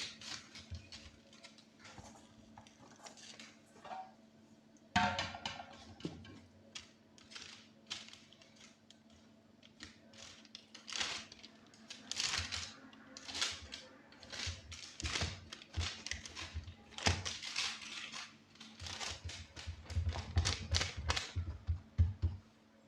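Irregular kitchen clatter: knocks and taps of utensils and dishes, thickening into a quick run of knocks near the end, over a faint steady hum.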